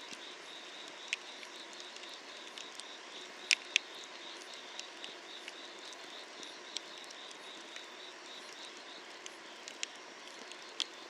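Wood fire crackling under a cast-iron cauldron: a few sharp pops over a steady hiss, the loudest two in quick succession about three and a half seconds in. Insects chirp in a steady pulsing trill behind it.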